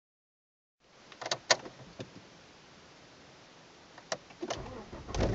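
Sharp clicks of the key going into the ignition and being turned on in a 1997 Volvo V70 2.5 with a cold engine. About four and a half seconds in the starter cranks and the 144 hp inline five-cylinder fires near the end: a cold start.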